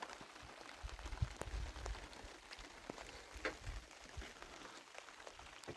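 Light rain falling, a faint even patter with scattered drops ticking sharply, and gusts of wind rumbling low on the microphone.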